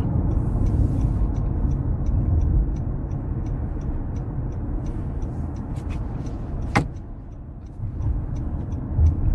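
Car driving, heard from inside the cabin: a steady low road and engine rumble, with a turn signal ticking about three times a second during a U-turn. A single sharp click comes about seven seconds in.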